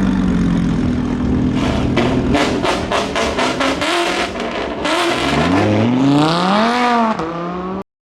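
Car engines at a car meet: a steady run, then a rapid series of sharp exhaust pops, then an engine revving up in pitch and dropping back. The sound cuts off suddenly near the end.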